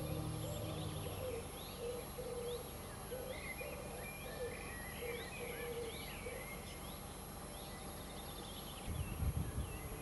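Birds calling outdoors: quick high chirps and short sweeping notes, with a run of lower short repeated notes for the first several seconds. A few low rumbles near the end.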